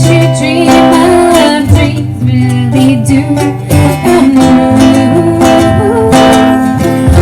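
Live acoustic music: strummed guitar with a sung melody over sustained low notes.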